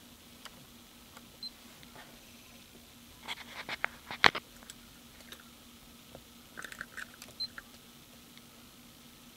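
Two clusters of small sharp clicks and taps over a faint steady hum, the louder cluster about three to four seconds in and a shorter one about seven seconds in.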